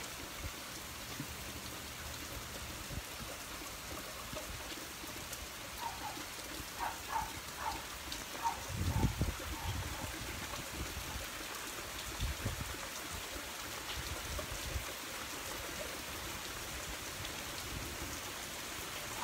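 Steady rain falling on pavement and puddles in a thunderstorm. A few short low rumbles come around the middle, with some faint short chirps just before them.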